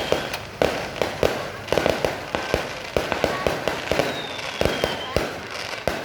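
Fireworks going off in quick, irregular succession, several sharp bangs a second, with a faint falling whistle about four seconds in.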